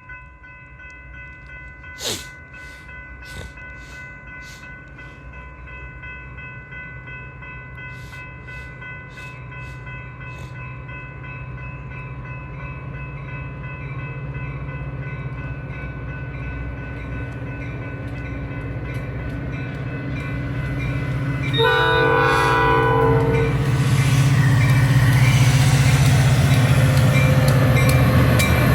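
A train approaching and growing steadily louder, with a blast of its horn lasting about a second and a half, about 22 seconds in.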